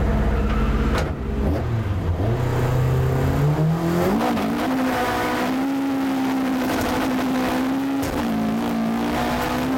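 Mk2 Escort rally car's 2.4-litre fuel-injected engine heard from inside the cabin. After a sharp click about a second in, the revs climb over a couple of seconds and are held steady and high at the start line. There is a short break about eight seconds in.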